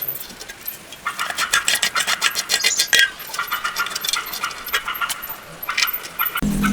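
Small metal parts and tools clinking and rattling: a dense run of light metallic clicks for about two seconds, then scattered clinks. A low steady hum starts just before the end.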